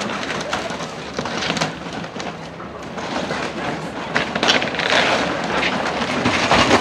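Heavy equipment tearing down a building: a dense din of crunching, breaking debris with many sharp cracks and knocks throughout.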